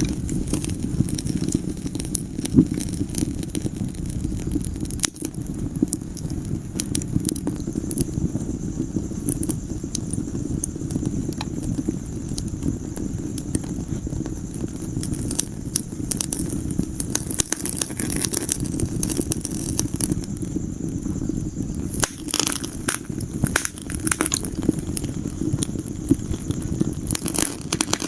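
Fireplace fire crackling and popping over a steady low rumble of flames, with a few quick clusters of louder pops near the end.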